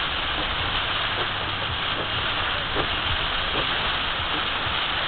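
Heavy rain pelting a moving car, heard from inside the cabin as a steady hiss over the low rumble of tyres on the wet road.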